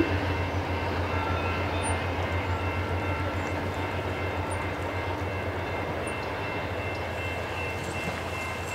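VIA Rail passenger train pulling away, its diesel locomotive working at the head end with a steady low drone and the coaches rolling over the rails, slowly fading as the train recedes.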